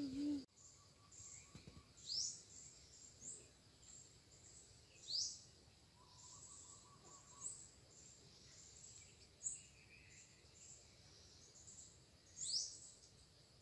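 Birds calling in quiet surroundings: three loud rising whistled notes, about 2, 5 and 12 seconds in, with shorter high chirps between them over a faint, steady high-pitched chirping.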